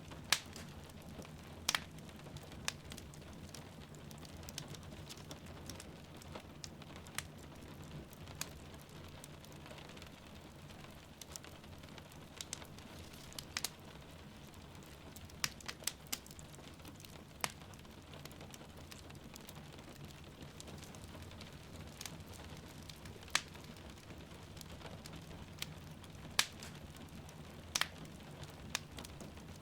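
Wood fire in a fireplace crackling, with sharp irregular pops every second or few, over the steady hiss and patter of falling rain.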